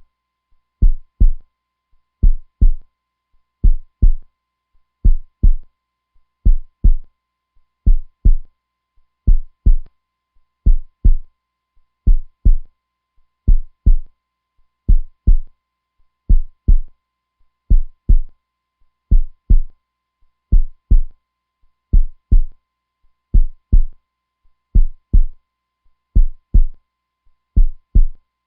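Strong, steady heartbeat: low lub-dub thumps in pairs, about one beat every second and a half.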